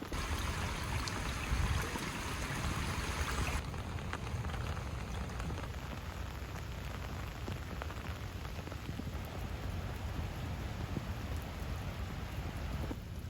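Steady rain falling. A brighter, harder hiss in the first few seconds stops abruptly about three and a half seconds in, leaving a softer, even rain sound.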